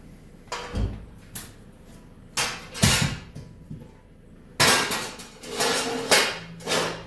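Metal tools and snowmobile parts clanking and rattling as they are handled, in a string of separate knocks and short clatters, the loudest ones in the middle and in the second half.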